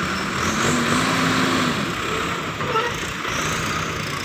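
Heavy vehicle engine running steadily, with a truck or tractor labouring in a recovery from mud.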